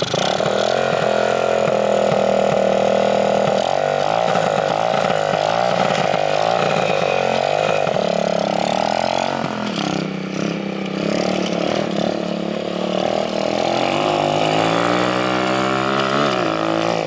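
Small Chinese minibike engine running and being revved, its pitch rising and falling unevenly as the bike is ridden, with a climb in revs near the end.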